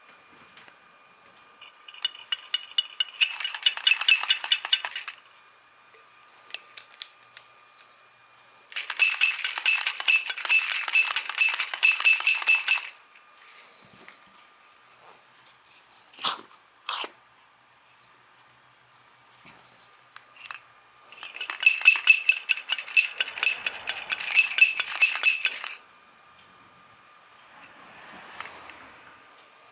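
Motorcycle carburetor from a Kawasaki 250TR shaken by hand in three bouts of a few seconds each, giving a fast metallic clattering rattle from inside: a rattle a carburetor does not normally make, of a cause the owner cannot yet find. Two short sharp clicks fall between the second and third bouts.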